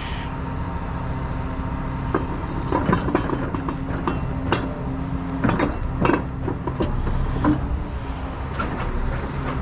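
Heavy truck engine idling steadily, with irregular sharp metal clanks and clinks over it.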